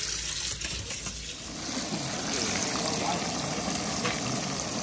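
Tap water running over a spotted bass in a kitchen sink for about the first second and a half, then a cut to oil sizzling steadily as pieces of spotted bass deep-fry in a pan.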